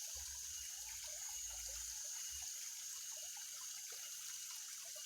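Faint water dribbling and dripping at the pond surface as a hard-pulling hooked pacu (bawal) is played in, over a steady high hiss. A low rumble fades out about two and a half seconds in.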